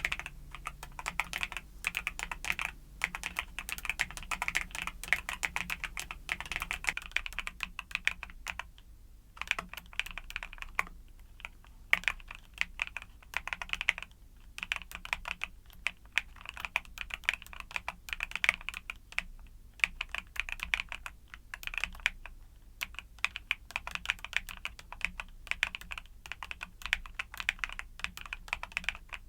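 Fast, continuous typing on a YUNZII mechanical keyboard with Cocoa Cream switches, with a few brief pauses between runs of keystrokes.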